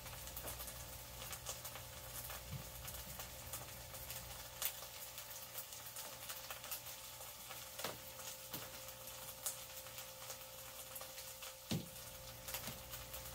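Tofu pan-frying in a frying pan, with faint irregular crackling and a few louder pops, over a steady low hum.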